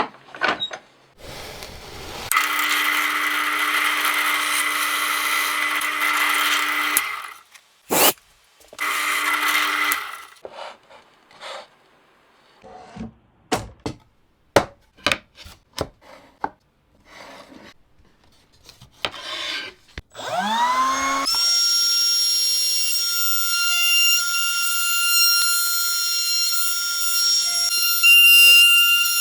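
A handheld power tool runs with a steady whine for about five seconds, then in two short bursts, followed by a series of separate knocks and clicks from handling the work. Near the end a motor spins up with a sharply rising whine and settles into a steady high whine.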